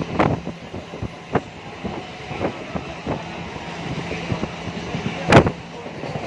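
Running noise inside a moving MEMU electric train coach: a steady rumble and hum with irregular clacks and rattles from the wheels and carriage, and one louder knock about five seconds in.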